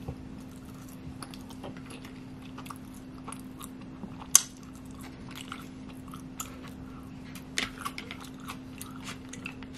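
Close-miked chewing of sushi with the mouth closed: a run of small wet clicks and smacks, with one sharper, louder click about four and a half seconds in, over a faint steady hum.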